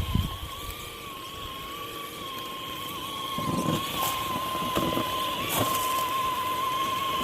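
Electric motor of a Traxxas RC truck whining at a fairly steady pitch as it drives. There is a thump right at the start and a few short bumps and knocks from the chassis and tyres a few seconds in.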